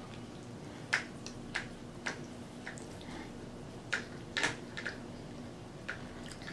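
Close-miked chewing with the mouth closed: scattered wet mouth clicks and smacks, about eight in all, over a faint steady hum.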